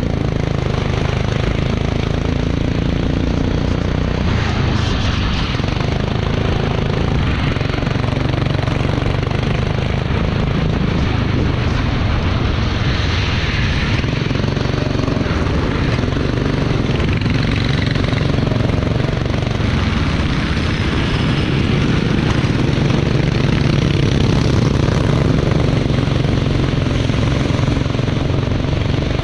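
Racing engine running hard and continuously, its pitch rising and falling several times with speed changes, with a hiss of noise over it.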